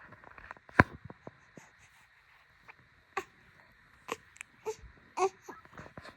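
A one-month-old baby giving a few short fussing whimpers, mostly in the second half, among scattered clicks and knocks. The loudest sound is a sharp click a little under a second in.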